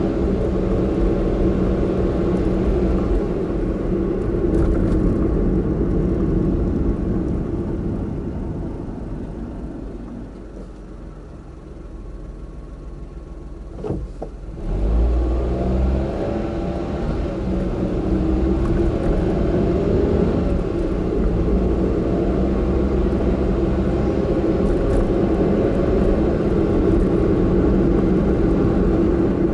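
Car driving: steady engine and tyre noise that fades as the car slows around the middle, then a short click and the engine picking up again as it pulls away and cruises.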